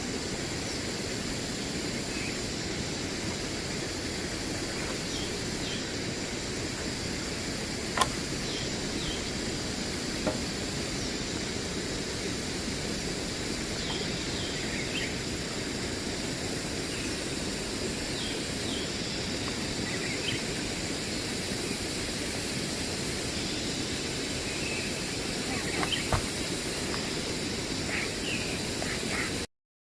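Rainforest ambience: a steady background hiss with a constant high drone, scattered short bird chirps, and two sharp knocks, one about eight seconds in and one near the end. It cuts off suddenly just before the end.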